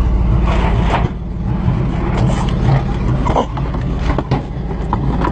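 Tow truck engine running with a loud exhaust, its muffler in need of repair, while the truck's gear gives several sharp clanks and knocks as the car is being hooked.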